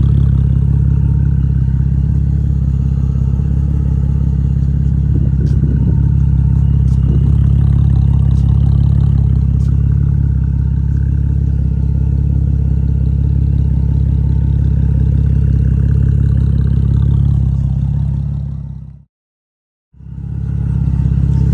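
Cadillac CTS engine idling steadily through custom straight pipes with the muffler deleted. The sound fades out and back in near the end.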